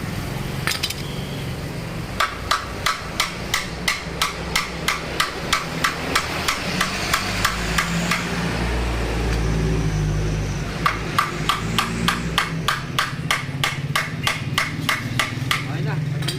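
Hammer tapping in quick, even strikes about three a second, in two runs with a pause of a few seconds between them, over a steady low background hum.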